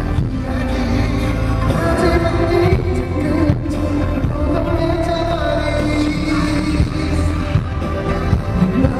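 Live pop song performed in concert and heard over loud speakers from the audience: a male lead vocal over a backing track with a heavy, pulsing bass.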